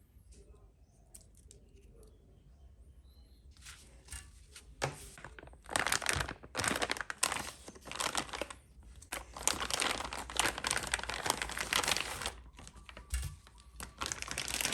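Plastic parts bag crinkling and rustling in bursts as it is handled, after a few seconds of faint small clicks.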